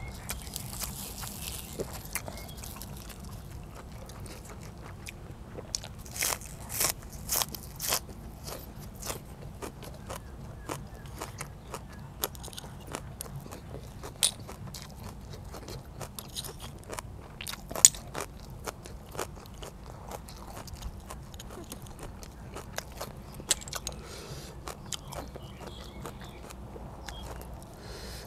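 A person biting and chewing crisp raw green onion and fresh vegetables close to a clip-on microphone: wet crunching with sharp cracks and clicks scattered throughout, a quick run of them about a quarter of the way in and the loudest single crack a little past the middle.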